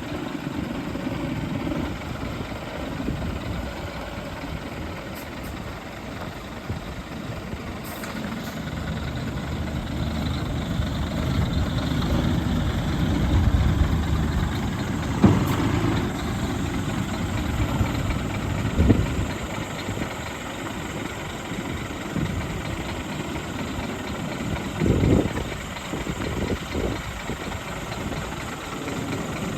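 Scania R480 truck's diesel engine idling steadily, with a few short knocks around the middle and in the last third.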